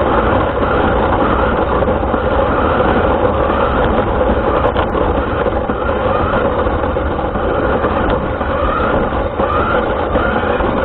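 RC car running, heard from a camera mounted on it: a steady rumble with its motor whine rising and falling again and again as it speeds up and slows.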